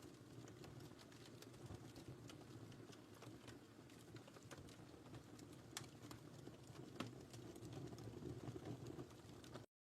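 Wood fire in a fireplace crackling faintly: a low, steady rumble of burning with scattered sharp pops, the loudest about six and seven seconds in.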